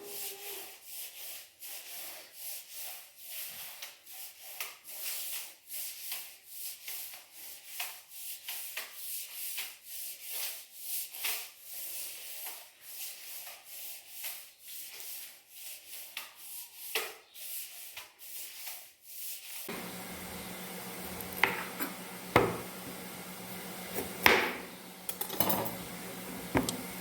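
Rapid, rhythmic scrubbing strokes, about two or three a second, carrying on for most of the time. Near the end they give way to a steady low hum and a few sharp knocks.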